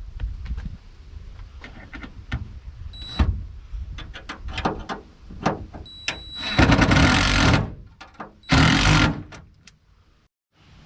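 Stainless steel bolts being tightened down on a boat's deck platform: scattered clicks and knocks of tools and hardware, with two louder bursts about a second long, roughly six and a half and eight and a half seconds in. The sound cuts off suddenly near the end.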